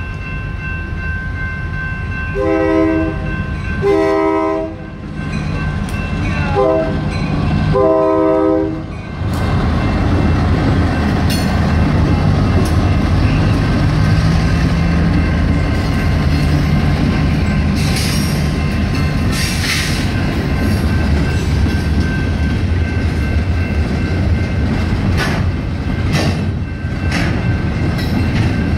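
Freight locomotive horn sounding the grade-crossing signal, two long blasts, a short and a long, over the steady ringing of electronic crossing bells. Then the Union Pacific GP38-2 and GP40-2 EMD diesel locomotives pass close by with a loud engine rumble, followed by freight cars rolling over the crossing with clicking wheels.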